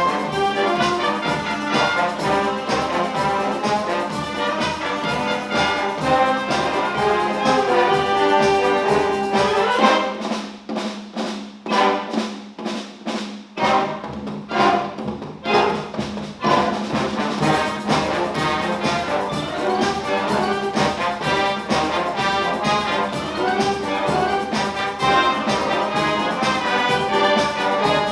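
Wind band playing, led by the brass. About ten seconds in, the low instruments drop out for a few seconds of lighter, detached playing, then the full band comes back in.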